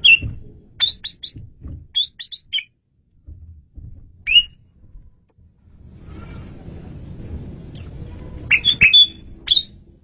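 Asian pied starling singing: clusters of short, sharp whistled notes, three or four at a time, with pauses in between and a louder flurry near the end.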